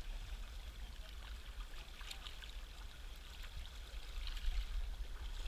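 River water rushing steadily past, a strong current, with a few faint clicks.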